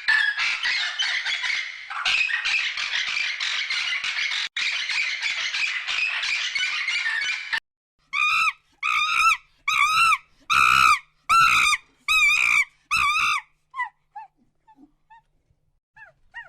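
Animal calls: a dense chorus of squawking, like a noisy flock of birds, cuts off suddenly, and then come seven loud, evenly spaced pitched calls, each about half a second long, followed by a few faint short calls.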